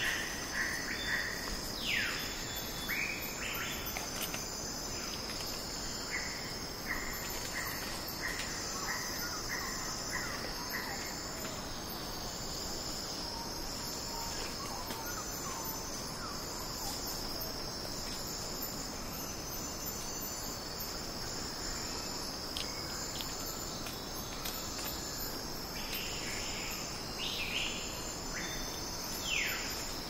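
Wilson's bird-of-paradise giving a few short calls that sweep downward, a couple about two seconds in and more near the end, with scattered clicks, over a steady high-pitched insect chorus. A run of short repeated notes sounds through the first ten seconds or so.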